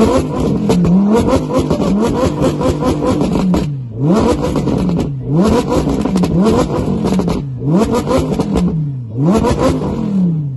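Audi R8's naturally aspirated V10 engine being revved hard again and again in quick blips, its pitch climbing and dropping with each rev, with a few short lifts between bursts. The owner of the video calls it really loud.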